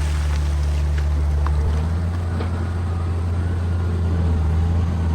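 Excavator's diesel engine running steadily with a deep hum; its pitch rises slightly about two seconds in.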